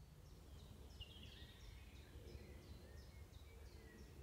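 Faint birdsong: short, high, falling notes repeated about three times a second, over a low outdoor rumble.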